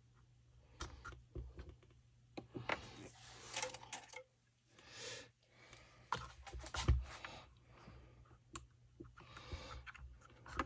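Scattered light clicks, taps and rustles of small parts being handled on a workbench, with a heavier knock about seven seconds in.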